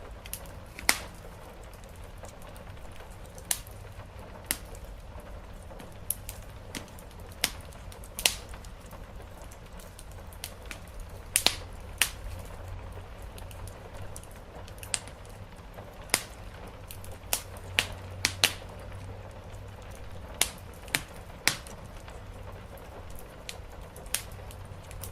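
Wood fire crackling, with sharp, irregular pops and snaps over a steady low rumble and an even hiss of rain on the roof.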